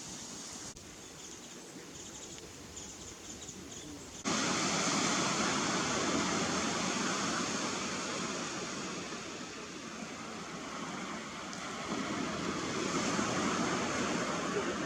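Steady outdoor rushing noise with no clear bird calls, which jumps suddenly louder about four seconds in and stays loud.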